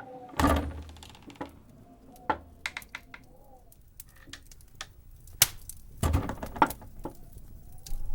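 Winter wind howling with a faint, wavering whistle that rises and falls. Over it come two loud crunching sounds, about half a second in and about six seconds in, with scattered sharp clicks and cracks in between.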